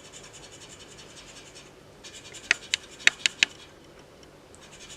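Scratch-off lottery ticket being scratched in rapid short scraping strokes, which pause about two seconds in for five sharp clicks and start again near the end.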